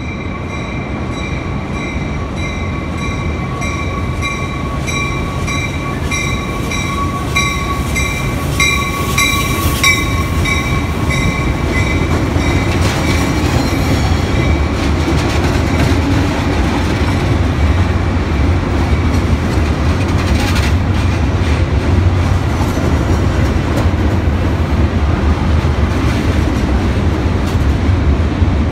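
Metra bilevel commuter train pulling out along the platform, its stainless-steel cars rolling past with a steady rumble and wheel clatter that slowly grows louder. A bell rings about twice a second over the first dozen seconds, then stops.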